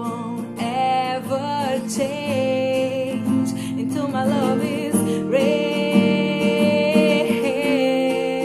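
Acoustic guitar playing chords under a singing voice holding long, wavering notes without clear words.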